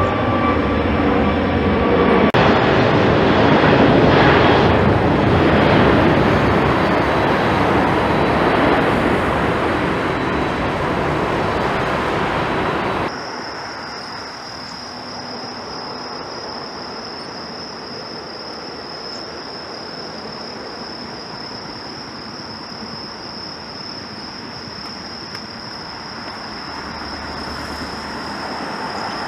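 Jet airliner engines making a loud, even rushing roar, with steady engine tones in the first two seconds. About thirteen seconds in the sound cuts off suddenly, leaving a quieter hiss with a steady high-pitched whine.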